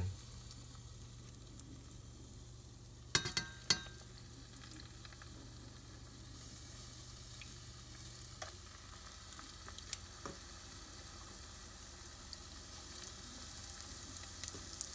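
Cornstarch-and-egg-coated eggplant strips frying in shallow oil in a stainless steel pot: a soft, steady sizzle. A few sharp clicks come a little over three seconds in, and a low hum underneath stops about eight seconds in.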